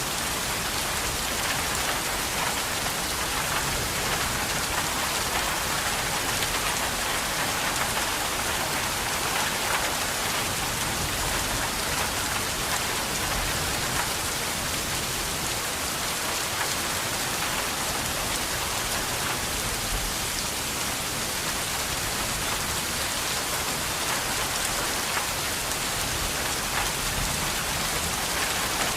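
Steady rain falling and pattering on a surface, an even hiss with no thunder or other events.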